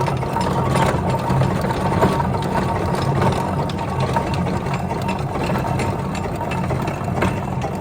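An engine running steadily with a busy mechanical clatter of rapid small clicks over its low drone.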